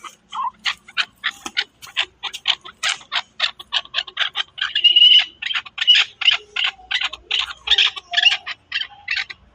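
Chukar partridge calling: a long, rapid run of sharp chuck notes, about four a second.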